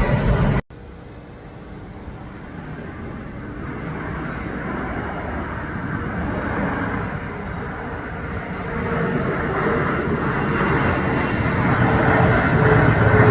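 After an abrupt cut just under a second in, the rushing noise of an aircraft grows steadily louder as it approaches.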